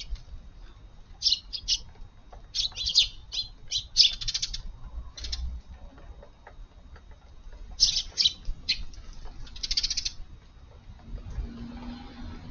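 Eurasian tree sparrows chirping in quick clusters of high chirps with short pauses between them, dying down near the end.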